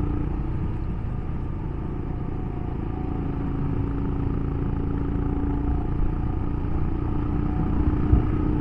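Royal Enfield Himalayan's single-cylinder engine running steadily under way, with a continuous low rumble.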